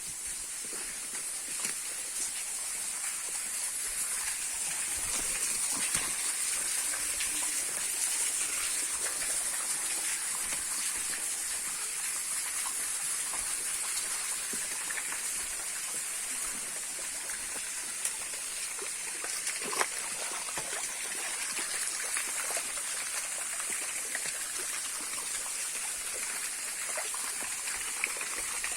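Rainforest ambience dominated by running, splashing water, with a steady high-pitched hiss over it and a few scattered clicks and taps.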